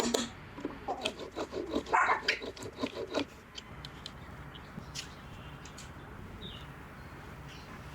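A dog barking in a quick series for about three seconds, with scattered light clicks and taps that carry on faintly afterwards.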